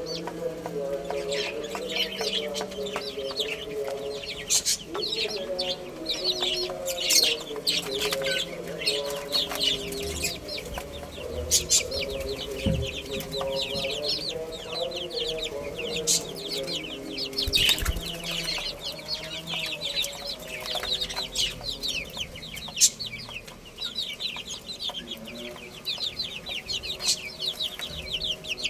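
Many chicks peeping continuously in quick, falling high chirps, with lower clucking calls of chickens beneath and a few sharp clicks.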